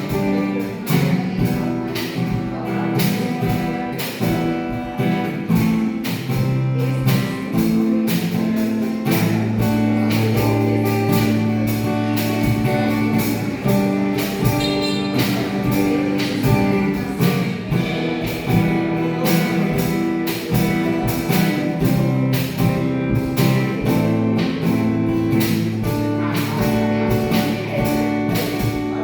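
Instrumental guitar music: chords played over a sustained bass line with a steady beat.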